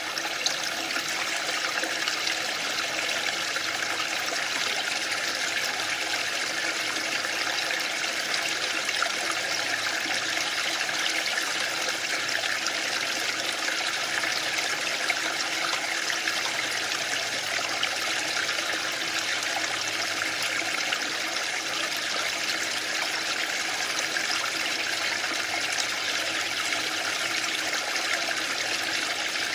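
Waterfall: a steady, even rush of falling water that does not rise or fall.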